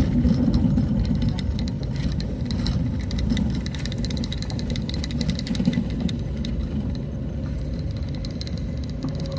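A motor vehicle driving along a road: a steady engine and road rumble with many small clicks and rattles throughout.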